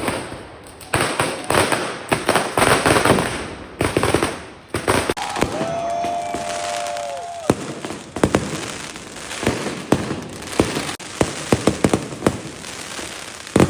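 Firecrackers and fireworks going off: a dense run of crackling bangs, then a steady high tone for about two seconds midway, then many separate sharp bangs.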